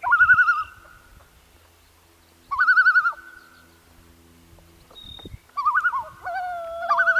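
Common loons giving tremolo calls, a rapid warbling quaver, in three bouts. In the last bout two birds overlap, one holding a lower, nearly steady note. This is the loons' alarm at an intruder near their chick.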